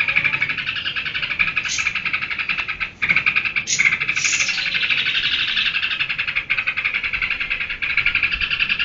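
Sooty-headed bulbul (trucukan) in a 'geberan' song: a rapid, unbroken chattering run of high notes, broken only by brief pauses about three seconds in and again near six and a half seconds.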